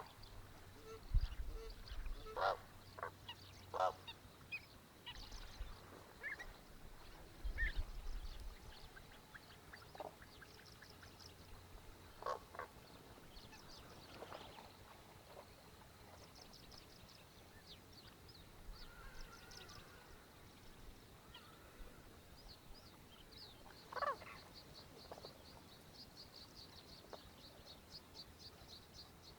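Birds calling: scattered short honking calls, with runs of a fast, high-pitched trill that repeat steadily near the end. A few low thumps fall in the first eight seconds or so.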